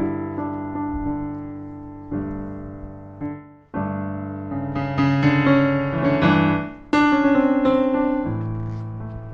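Background music: solo piano playing slow sustained chords that die away and are struck again several times.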